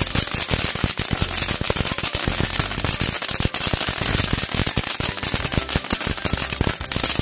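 Fireworks going off in a fast, unbroken run of sharp pops and crackles, like a string of firecrackers.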